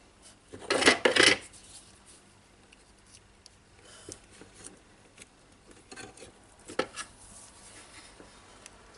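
Small metal tools and parts handled on a workbench: a loud rattling scrape about a second in, then a few lighter clicks and clatters.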